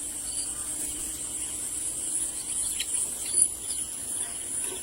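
Steady, high-pitched chorus of insects, with a few faint short chirps over it.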